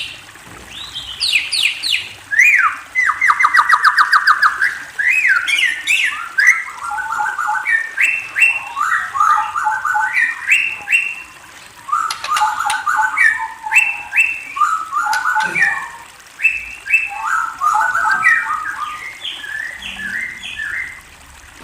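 A murai, a Copsychus songbird of the magpie-robin and shama group, singing a continuous, varied song of quick whistled phrases and chirps, with a fast trill of rapidly repeated notes about three seconds in.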